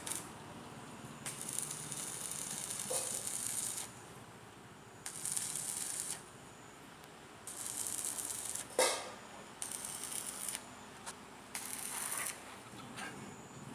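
Electric arc welding in several separate bursts of one to two and a half seconds each, the arc crackling and hissing, with pauses between welds. A sharp knock about nine seconds in.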